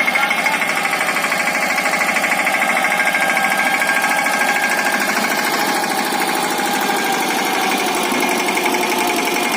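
Mahindra Yuvraj 215 NXT mini tractor's single-cylinder diesel engine running steadily with an even, rapid chugging beat.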